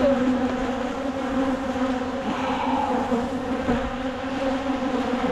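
Honeybees buzzing around an open hive: a steady, fairly loud drone of many wingbeats at one even pitch.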